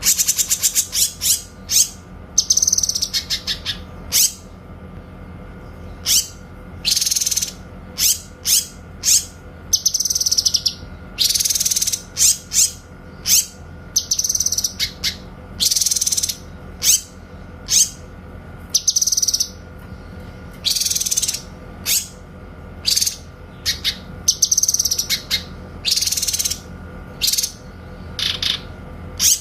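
Cucak kinoy singing: a long run of short, sharp, high-pitched calls and arched whistled phrases, repeated with brief pauses between them, as clear loud bursts of song, over a faint steady hum.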